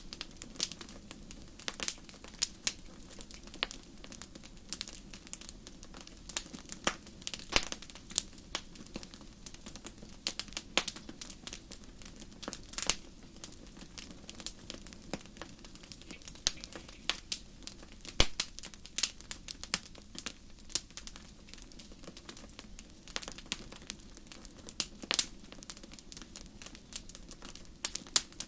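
Wood campfire crackling: irregular sharp pops and snaps, several a second and some louder than others, over a steady low background.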